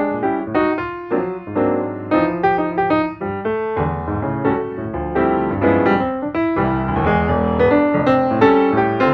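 Background piano music with quick, bright repeated notes over a steady bass line.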